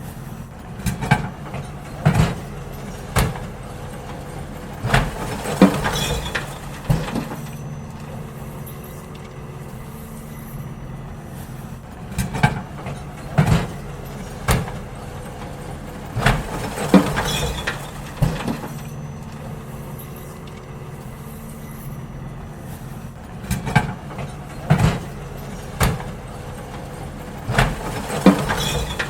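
Garbage truck engine running steadily while bins are emptied into it: bursts of knocks and clatter every few seconds, in five groups.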